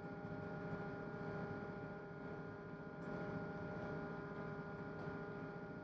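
Tugboat's 1000 PS diesel engine running steadily: a constant mechanical hum with a few held tones over a low rumble.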